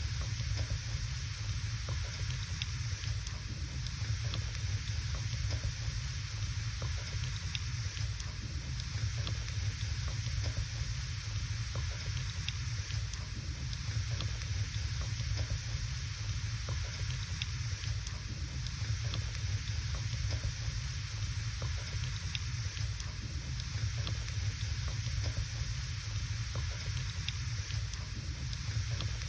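Wood fire burning in a fireplace: a steady hiss and low rumble with many small, scattered crackles.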